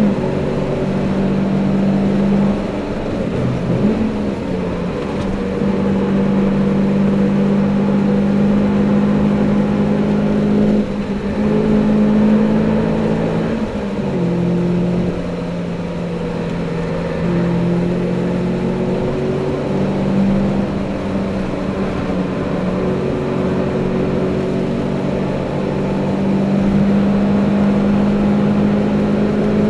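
Toyota Celica VVT-i's four-cylinder engine running hard under load, heard from inside the cabin. Its note holds high, steady revs and drops and climbs back several times as the driver changes gear and lifts off the throttle.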